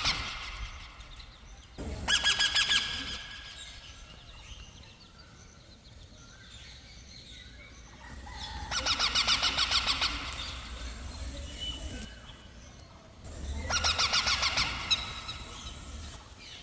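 Parrot chick calling in three bursts of rapid, pulsing chatter, each lasting one to two seconds, with quieter gaps between.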